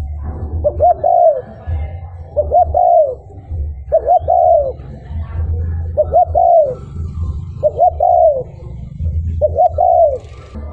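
Spotted dove cooing its territorial song: six repeated phrases, roughly one every two seconds, each two short notes and then a longer note that falls away. A steady low rumble runs underneath.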